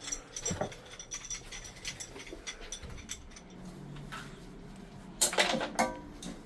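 Scattered clicks and small metallic clinks of plumbing parts and tools being handled while old piping is taken apart. A louder metal clatter about five seconds in rings briefly.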